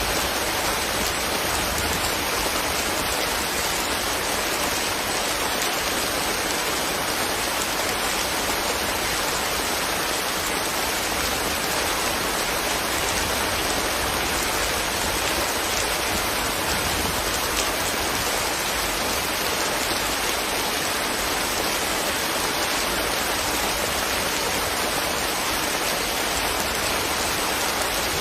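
Steady rain falling on leaves, an even hiss that holds without a break.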